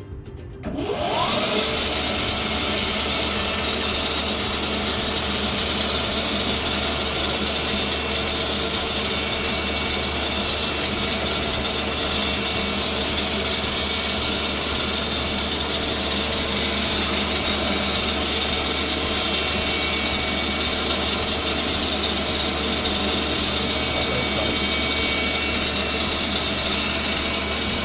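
Machine-shop cutting machine spinning up with a brief rising whine about a second in, then running steadily as it cuts hemispherical combustion chambers into Volkswagen cylinder heads to lower their compression.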